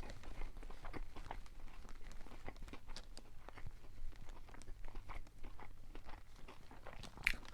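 Close-up chewing of a crispy fried chicken sandwich: soft crunching and wet mouth clicks, irregular throughout.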